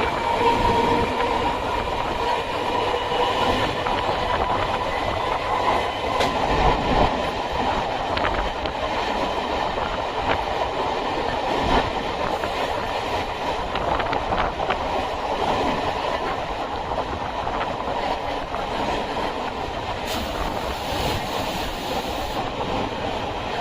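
Electric suburban train running along the track, a steady rumble with the wheels clicking over rail joints now and then and a faint steady whine that fades over the first half.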